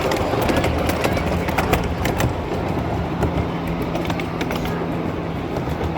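A train running on its rails: a steady rumble and low hum, with many sharp clicks and knocks in the first half that thin out after about two and a half seconds.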